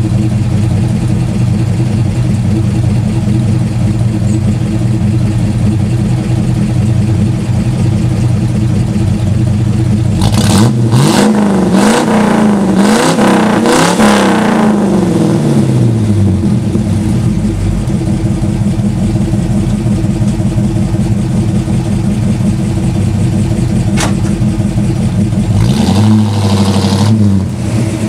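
1967 Chevrolet Impala's V8 idling from behind at the exhaust. About ten seconds in it is revved in several quick blips that rise and fall, then it settles back to a steady idle. Near the end it revs briefly again and pulls away.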